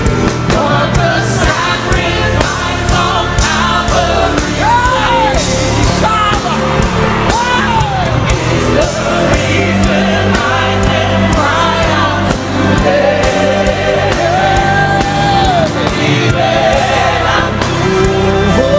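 Live worship music: a band with drums and bass playing while a singer holds long, gliding sung phrases.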